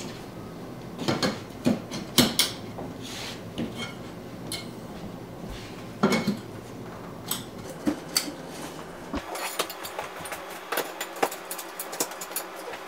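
Tent frame poles clattering and knocking as they are handled and fitted into corner receivers, with irregular clicks and taps throughout.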